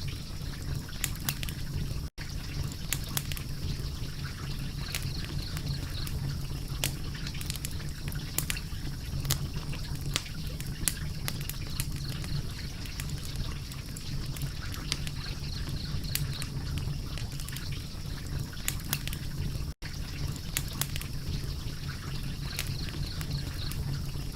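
Fire crackling, with frequent sharp, irregular pops over a steady low rumble and hiss. The sound cuts out for an instant twice, about two seconds in and near the end.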